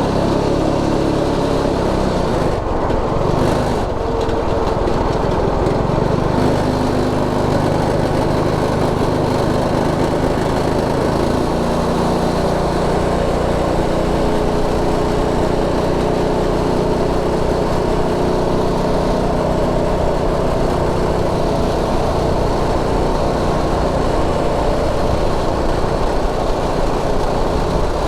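Predator 212 Ghost single-cylinder engine running steadily at high revs under load while the machine is ridden, with rushing noise underneath.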